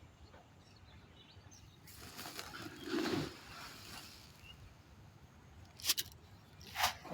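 Quiet pond-side ambience with faint bird chirps, broken by a soft swell about three seconds in and two short sharp splashes near the end as fish strike at feed on the water surface.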